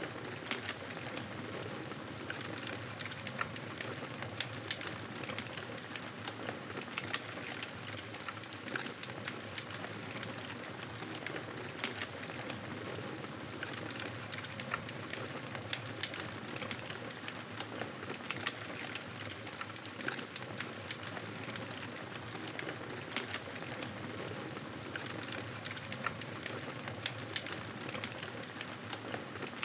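Campfire crackling: a steady hiss of burning wood with frequent small, irregular snaps and pops.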